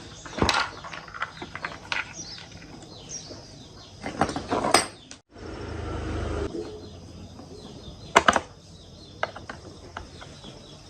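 Metal parts and tools clinking and knocking on a workbench, with irregular sharp clatters, three louder clusters, and a short low hum in the middle.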